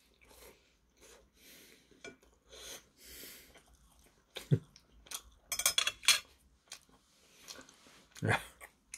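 A man chewing a mouthful of pan-fried dumpling and breathing through his nose, with two short low hums of relish, one about halfway and one near the end. Between them there is a quick cluster of sharp clicks.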